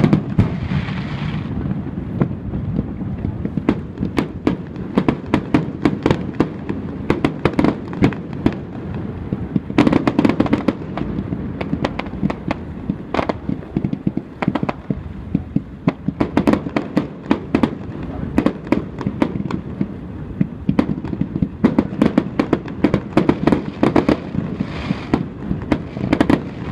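Aerial firework shells bursting one after another, with dense irregular popping and crackling over a low rumble of booms.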